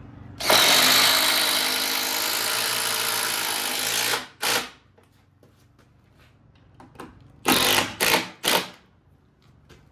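Power drill running for about four seconds, then a short burst, then three quick bursts in a row near the end.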